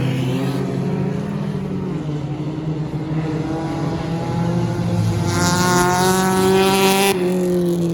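Several stock car engines running steadily on the track during an enduro race. About five seconds in, one engine comes through much louder with a buzzing tone for about two seconds, then cuts off suddenly.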